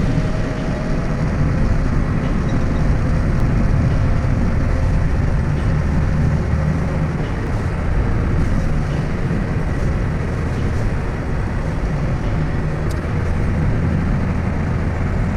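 Heavy truck's engine running with a steady low rumble.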